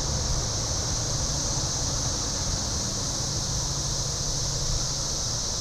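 A steady, high-pitched chorus of periodical cicadas droning without a break, with the low hum of a diesel commuter train running underneath.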